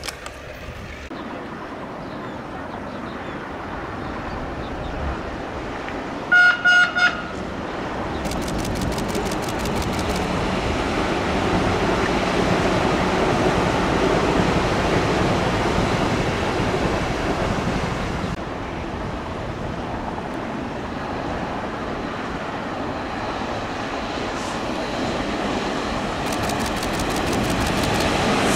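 Puyuma tilting express train (TEMU2000 electric multiple unit) sounding three short horn blasts, then running past on the line with a rumble that grows louder. The running sound drops at about 18 seconds and then builds again toward the end as another train comes along the track.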